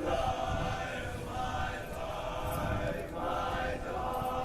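A cappella choir singing sustained chords, the voices shifting together to new chords a few times.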